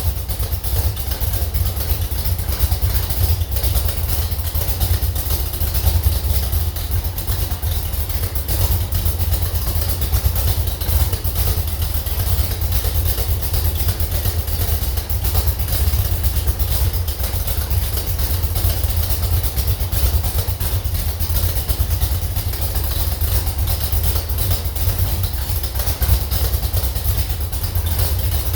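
Slover 305 engine running steadily on a test stand, an even, rapid firing that neither speeds up nor slows down.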